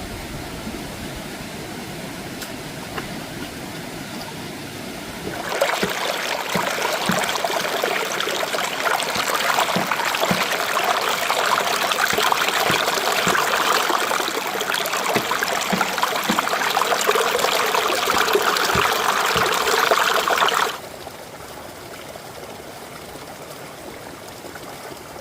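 Stream water running and splashing. It becomes much louder and brighter about five seconds in, then drops back abruptly about twenty seconds in.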